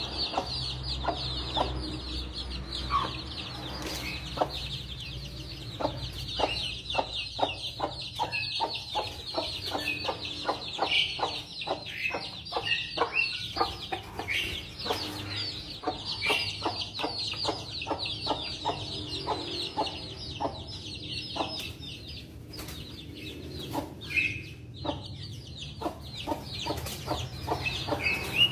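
A flock of ayam kampung, Indonesian native village chickens, clucking and calling continuously, with many short, high calls overlapping.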